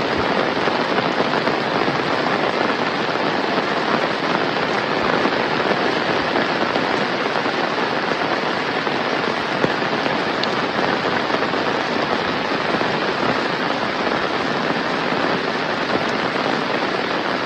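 Heavy rain pattering and splashing steadily, a dense, even hiss of countless drops with a crackly edge.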